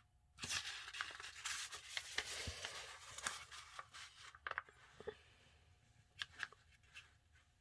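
A sheet of printer paper rustling and sliding as it is folded over, followed by a few short crinkles as the fold is worked into place.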